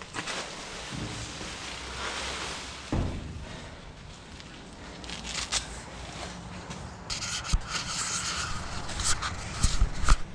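Rubbing and scraping against the camera's body, with a few short knocks near the end.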